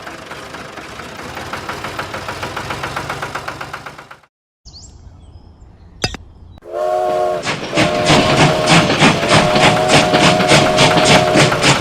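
Train-like sound: a rhythmic clatter fades away, and after a brief silence and a click a horn or whistle sounds. Then a louder rhythmic chugging of about four beats a second runs under steady whistle tones.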